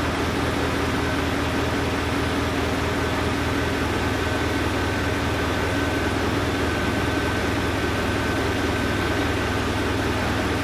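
Isuzu Giga truck's diesel engine idling steadily, with a faint steady high whistle over it.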